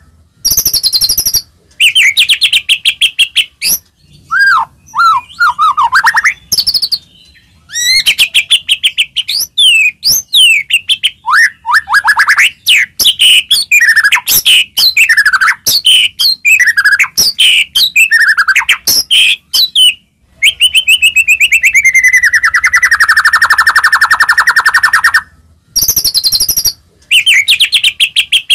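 White-rumped shama in full, varied song: fast trills, chattering phrases and whistles broken by a few short pauses, with one long descending whistle near the end.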